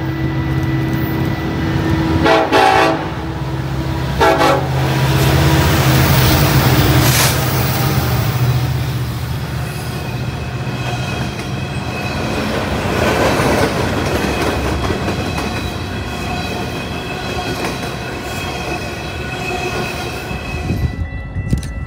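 A train horn sounding with two short, louder blasts a few seconds in, then stopping, while a train rolls past with a continuous rumble and rail clatter.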